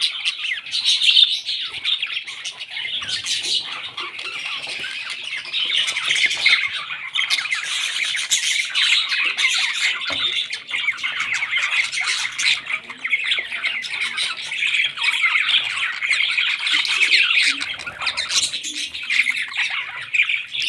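Parrots squawking and chattering continuously in a fast, dense stream of high, scratchy calls.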